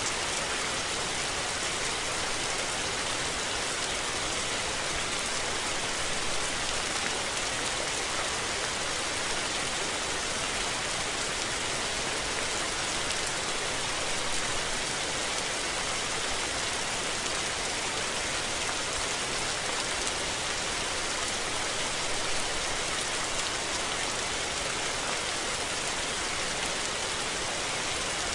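Steady rain falling, an even hiss of many drops, brightest in the high range, with no rise or fall in strength.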